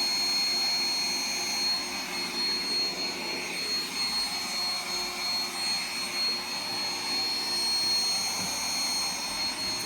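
Roomba robot vacuum running steadily: a whirring of its motor and brushes with a constant high whine.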